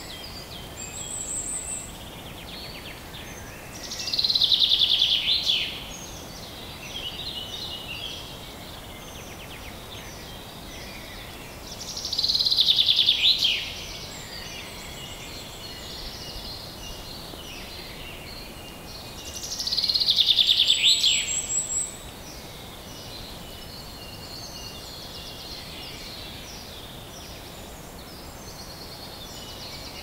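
Songbird singing over a steady background hiss of outdoor ambience. One loud falling, trilled phrase comes three times, about eight seconds apart, with softer high chirps in between.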